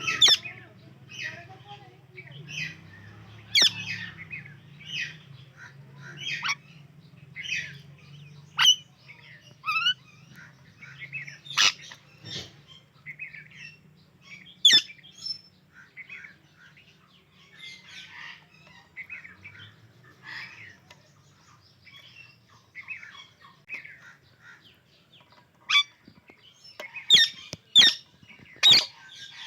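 Indian ringneck and alexandrine parakeets chirping: short chirps about once a second, broken by sharp, loud calls, several in quick succession near the end.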